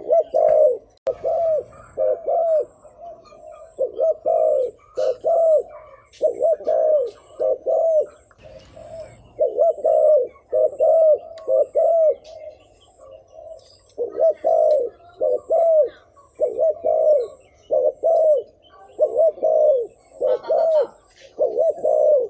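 Spotted dove cooing over and over: short, arched coos in quick runs of two to four, with brief pauses between the runs.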